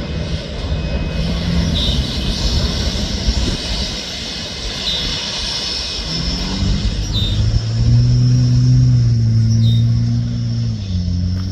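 Freight train rolling past, its wheels rumbling on the rails with a short high squeak every couple of seconds. About six seconds in, the low drone of a diesel locomotive engine comes in and shifts pitch a few times.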